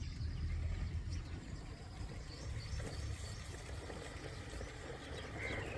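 Outdoor rural background with a few faint bird chirps over an uneven low rumble.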